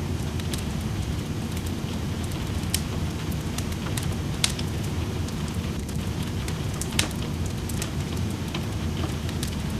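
Wood fire crackling in a fireplace, with irregular sharp pops, a few of them louder, over a steady rushing of rain.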